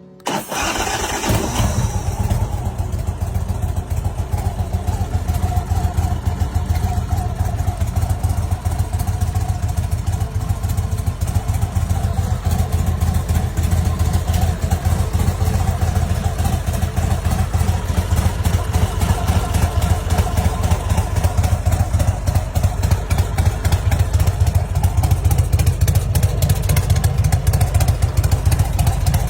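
Big Dog K-9 chopper's V-twin engine idling, with a steady, fast low pulse. It comes in suddenly just after the start.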